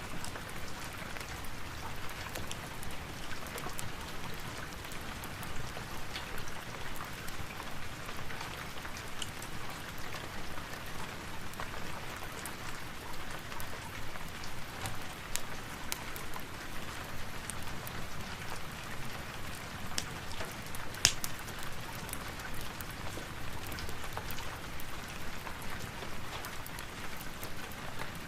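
Steady rain pattering, with scattered small crackles and pops from a fireplace and one sharper pop about three-quarters of the way through.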